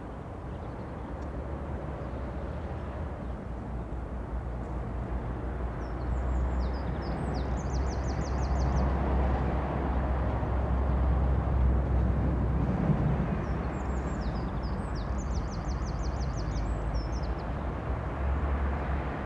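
A Pacer diesel railbus running past on the main line, a steady rumble of engine and wheels that builds to its loudest a little past halfway and then eases slightly. A small songbird sings a short, fast trilled phrase twice over it.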